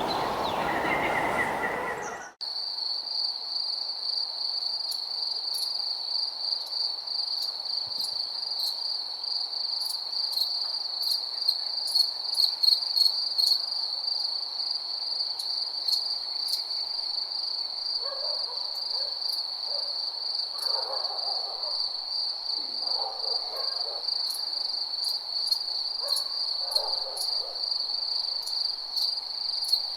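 Crickets chirping in a steady, high, continuous trill. The track cuts in abruptly about two seconds in, after a noisier stretch of ambience. In the second half, fainter, lower calls come in now and then.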